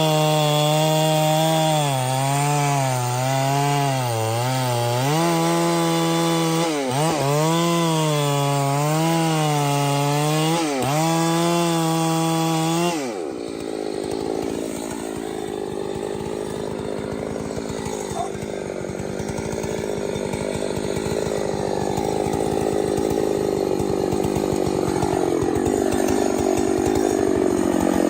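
Chainsaw running hard, its engine pitch dipping and recovering several times as it cuts. About halfway through the note drops to a lower, rougher, somewhat quieter sound that carries on steadily.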